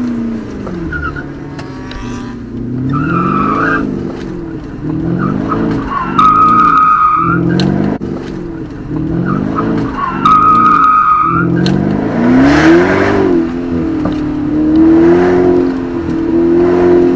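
Car engine heard from inside the cabin, its pitch rising and falling about once a second as the throttle is worked hard, with the tyres squealing three times in hard cornering. Near the end the engine climbs and holds a higher pitch under acceleration.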